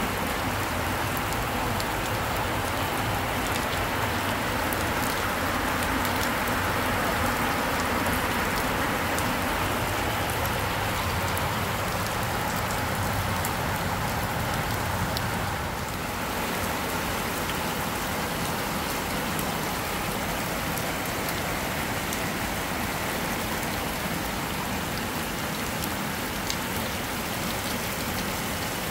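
Heavy rain falling steadily, a dense hiss dotted with many small drop ticks, easing slightly about halfway through.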